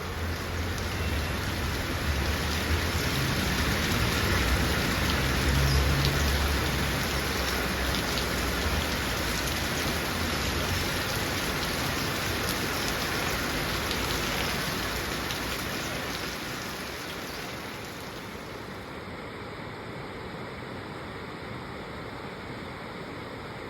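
Heavy rain falling in a steady hiss, with a low rumble underneath for about the first half. The rain eases a little near the end.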